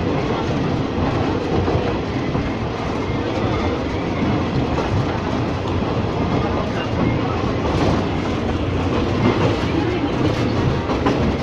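Ex-JR 203 series electric multiple unit running along the track: a steady rumble of wheels and traction motors, with a few clicks of the wheels over rail joints.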